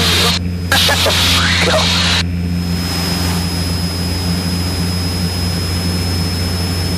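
Cessna 172's piston engine droning steadily in cruise, heard through the cockpit intercom, with faint voices in the first two seconds. About two seconds in, a steady hiss with a thin high tone comes in over the engine drone and holds.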